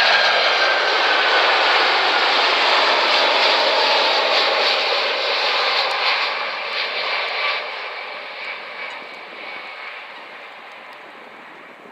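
Boeing 747-400 jet airliner's engines passing close, a loud jet roar with a high whine that falls slightly in pitch, then fading away steadily over the last six seconds.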